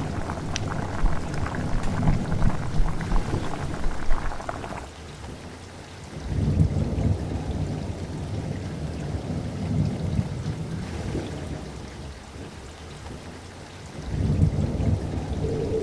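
Thunderstorm: steady rain with rolling thunder in three long low rumbles. The first crackles, the second begins about six seconds in, and the third near the end.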